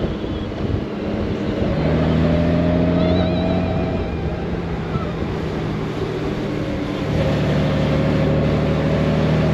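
Honda Gold Wing's flat-six engine under way, with wind rushing over the microphone. The engine note comes up and louder about two seconds in, eases about four seconds in, and pulls again about seven seconds in.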